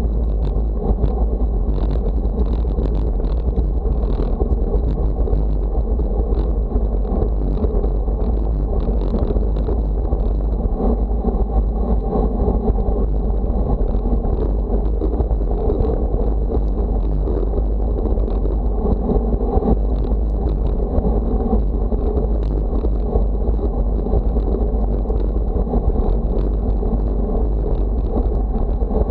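Wind buffeting the microphone: a steady, loud low rumble, with a few faint ticks above it.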